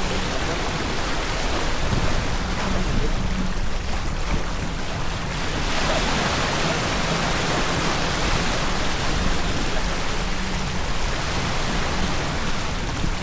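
Steady rush of wind and water aboard a sailboat under way, with the hiss growing brighter for several seconds in the middle.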